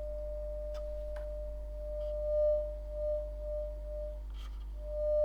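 A steady 600 Hz sine test tone from a signal generator, played through the Armstrong 626 receiver's amplifier into loudspeakers. It swells louder and fades back several times in the second half, with a faint low hum beneath.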